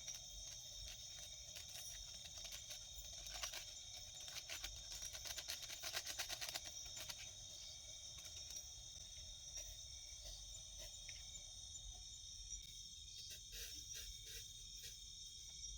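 Forest insects chirring steadily in a high, even chorus, with scattered clicks and crackles that bunch together about five to seven seconds in and again near the end.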